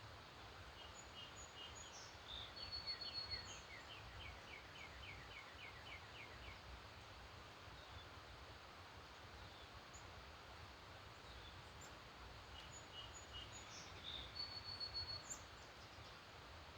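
A single songbird singing the same short song twice, about eleven seconds apart: a few high notes and a held whistle, then a quick run of falling notes. A faint steady hiss lies under it.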